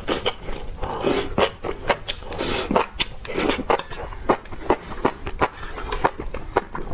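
Close-up chewing of spicy enoki mushrooms: wet mouth clicks and smacks, several a second, with a few longer hissy sounds in between.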